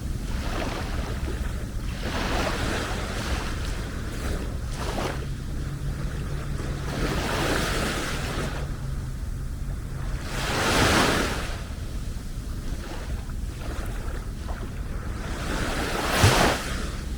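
Small waves washing onto a sandy beach, each wash swelling and fading every few seconds, the loudest about two-thirds of the way through. A low wind rumble on the microphone runs underneath.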